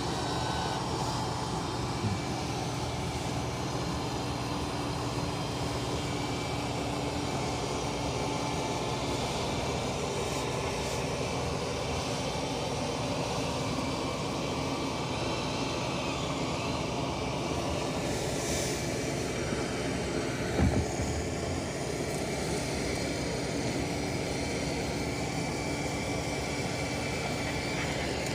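Roborock Saros Z70 robot vacuum running steadily, its suction fan and brushes giving an even whirring hum. A light knock sounds about two seconds in and another, louder one about two-thirds of the way through.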